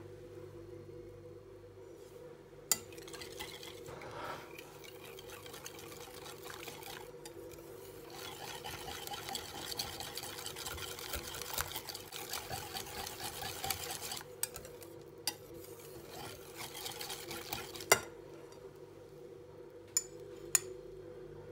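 Stirring or whisking in a bowl with a utensil, a long stretch of scraping from a few seconds in to about two thirds through, then a few sharp clinks of the utensil against the dish near the end, over a steady low hum.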